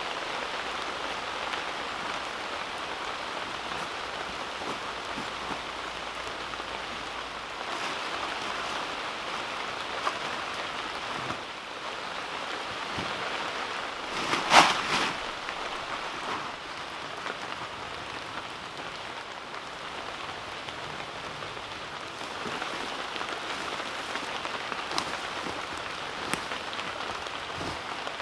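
Heavy rain pouring steadily, with one short louder splash or knock about halfway through.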